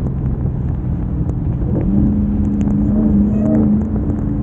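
Supercharged 6.2-litre Hemi V8 of a Hellcat Redeye running under way at steady, moderate throttle, with a low engine hum that steadies and strengthens about two seconds in.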